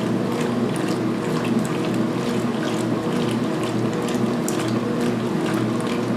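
2016 Speed Queen top-load washer agitating a load of towels at high speed during its main wash. The belt-driven motor and transmission run with a steady hum under repeated sloshing of water and a light mechanical clicking.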